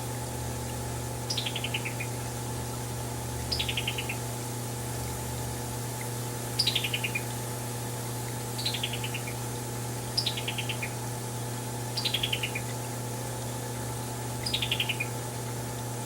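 Male summer tanager calling: quick chattering series of clipped notes falling in pitch, given seven times about every two seconds, over a steady hum.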